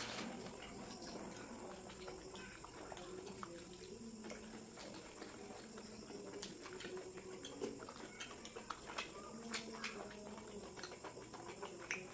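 Two people chewing mouthfuls of chicken roll, with many small wet mouth clicks and smacks.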